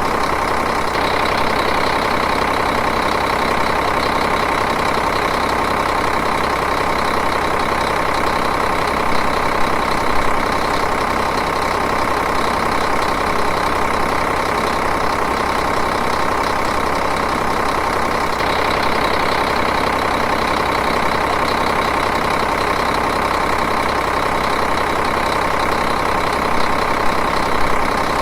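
Diesel engine idling steadily, an even, continuous clatter with fine regular pulsing.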